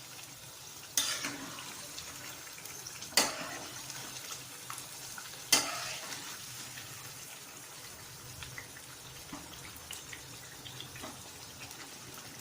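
Chicken in wet masala sizzling steadily in a pot while being stirred, with three sharp knocks of the stirring spoon against the pot in the first half.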